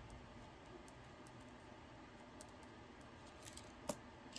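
Faint clicks and taps of paper cash and envelopes being handled, with one sharper click about four seconds in.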